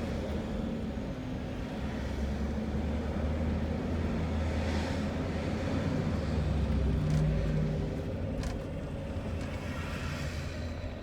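Motorhome engine and road noise while driving: a steady low drone, with two short clicks in the second half.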